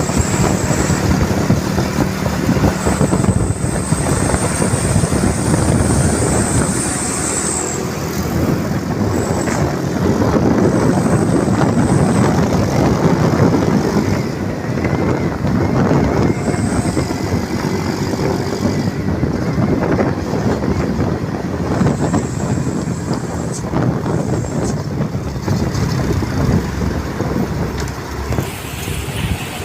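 Mitsubishi Fuso Canter truck running, a continuous rumble of engine and road noise.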